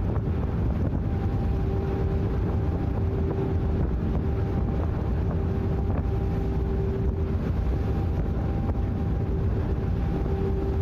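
Engine of a sightseeing icebreaker ship running steadily: a low rumble with a constant hum, and wind buffeting the microphone.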